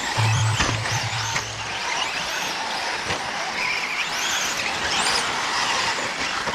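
Several radio-controlled short course trucks racing on a dirt track: their motors whine up and down in pitch again and again as they accelerate and slow, over a steady hiss. A low hum sounds for the first couple of seconds.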